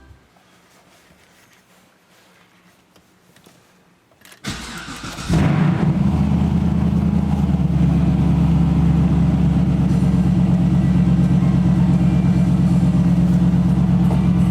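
Car engine cold-started: after a few quiet seconds the starter cranks briefly, about four and a half seconds in, and the engine catches within a second, settling into a loud steady idle.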